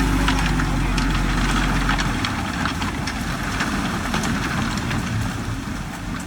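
Diesel engine of a heavy earthmoving machine running. Its steady low hum drops away about two seconds in, leaving a rougher rumble with scattered faint clicks.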